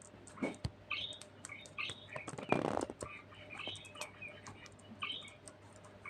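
Budgerigar chirping and chattering in short, quick calls, with scattered sharp clicks and taps; a brief rustle about two and a half seconds in.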